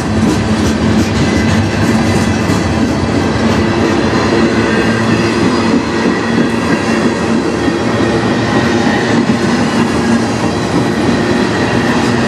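Freight cars of a long mixed manifest train rolling past: steady wheel-on-rail noise with clicking over the rail joints and a thin steady whine from the wheels.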